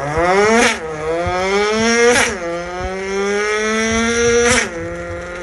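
Car engine accelerating hard through the gears: the pitch climbs, drops sharply at an upshift about two-thirds of a second in and again about two seconds in, then climbs more slowly until the throttle is lifted near the end, with a short crack at each shift.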